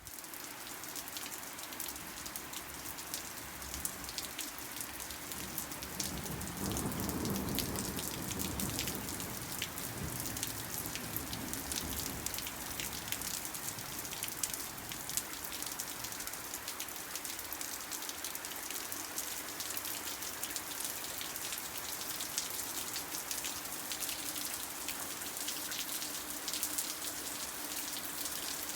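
Steady rain falling, with many individual drops ticking. A louder, deeper rush swells for several seconds about a quarter of the way in, then eases.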